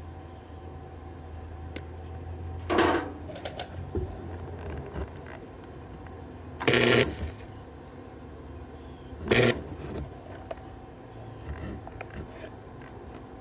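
Arc welder striking three short welds, each about half a second long, over a steady low hum, with a few faint clicks between them.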